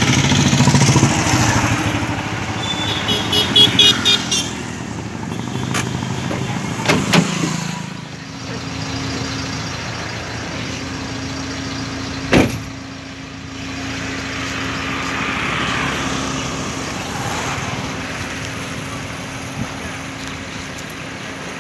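Car engine running, settling into a steady low tone about a third of the way in. There is a single sharp click about halfway through.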